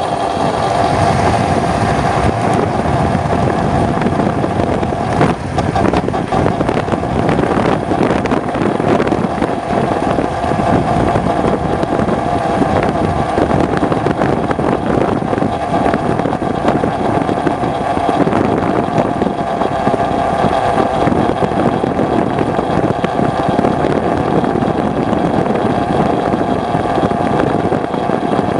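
Aprilia RS125's single-cylinder two-stroke engine running under way, holding a fairly steady pitch, with rushing wind noise.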